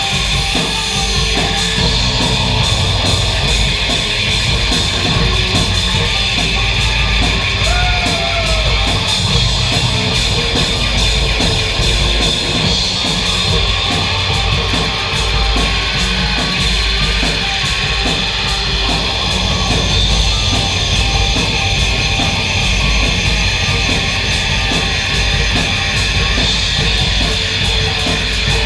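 Live noise music: a loud, dense wall of distorted noise with a heavy low rumble and a steady high hiss, changing little throughout.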